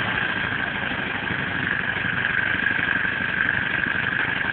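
Air engine running steadily at a fast, even beat, with a constant hiss over it.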